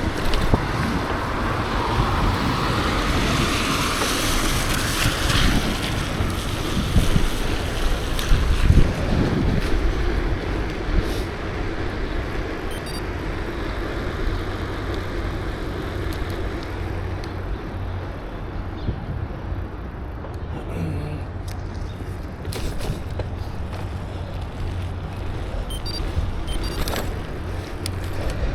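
Wind rumbling on the microphone of a camera riding along on a bicycle, with road traffic passing by. A louder swell of passing-vehicle noise comes in the first few seconds.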